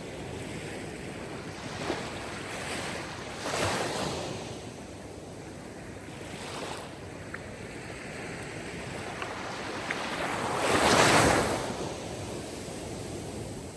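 Sea surf: waves washing in one after another, rising and falling, the loudest swelling near the end.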